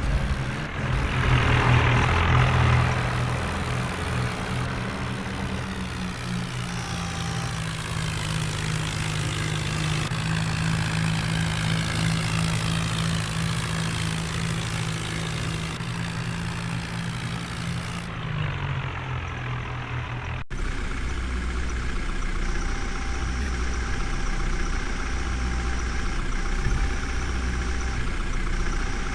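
Heavy machinery's diesel engine running steadily, louder for a couple of seconds near the start. About twenty seconds in, an abrupt cut switches to another engine idling with a low, pulsing throb.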